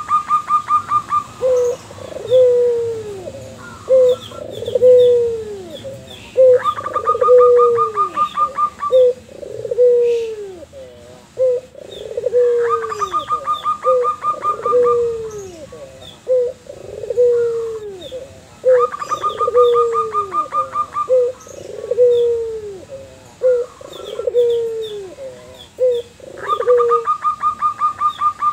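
A white puter dove and a zebra dove (perkutut) calling back and forth. A rapid trill of clipped notes returns about every six seconds, and a steady series of short downslurred coos, roughly one a second, runs between the trills.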